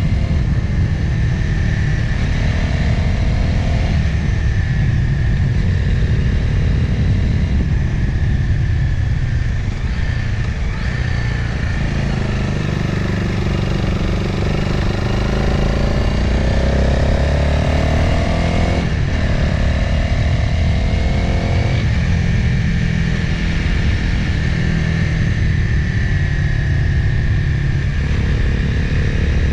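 Motorcycle riding sound from an onboard camera: the engine's pitch rises and falls repeatedly with the throttle and gear changes, over a steady rumble of wind and road noise.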